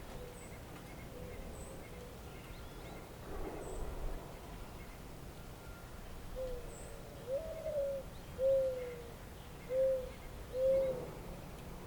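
A bird giving a series of five low hooting notes in the second half, the third falling away in pitch, against faint high chirps from small birds.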